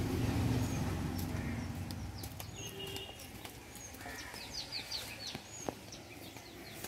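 Birds chirping in short high calls, with a quick run of falling notes about halfway through. A low rumble fades out over the first two seconds.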